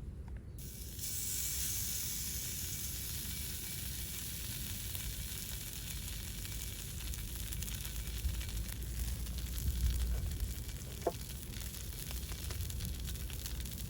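Steak sizzling over a wood fire, a steady hiss that starts abruptly about half a second in, with scattered small crackles.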